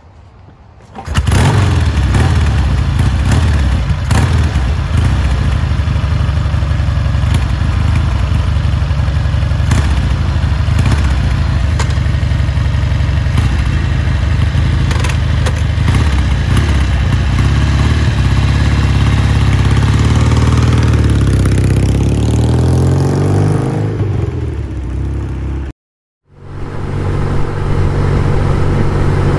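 A 1974 Norton 850 Commando's parallel-twin engine fires up about a second in and runs with a dense, steady beat, its pitch gliding as it revs near the end. After a brief cut it is heard running again steadily.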